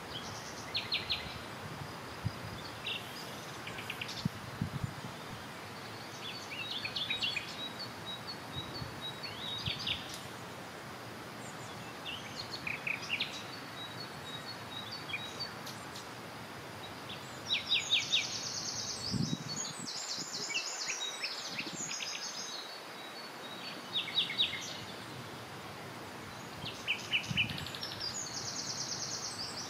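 Songbirds singing: repeated short chirps and quick trills, over a steady outdoor background hiss.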